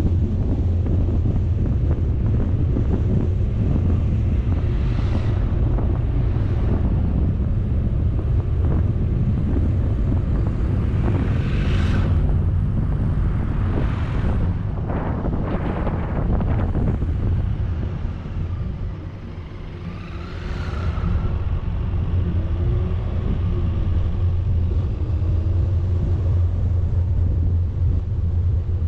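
Steady low rumble of a vehicle driving, with wind buffeting on the microphone and a few short louder rushes of air; it briefly quietens about two-thirds of the way through.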